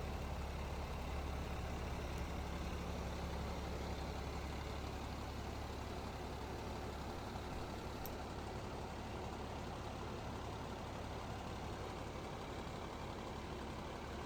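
Steady low rumble of a diesel fire engine idling.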